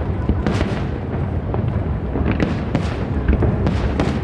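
Fireworks display shells bursting in quick succession: repeated booms, about one every half second to a second, over a continuous low rumble of distant explosions.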